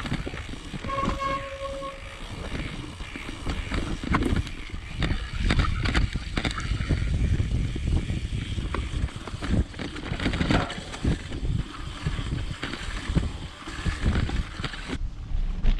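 Mountain bike riding over a rough, muddy trail: rapid irregular rattles and knocks from the bike over a steady low rumble of tyres and wind on the microphone.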